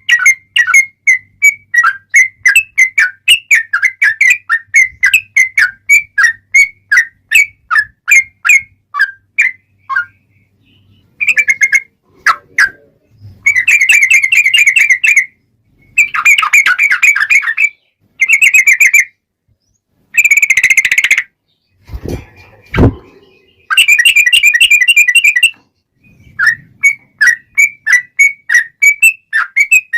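Yellow-vented bulbul (trucukan) singing: runs of loud whistled chirps a few a second, broken by several dense, rapid phrases of about a second each in the middle, the long rapid 'ropel' song. Two brief low knocks sound about two-thirds of the way in.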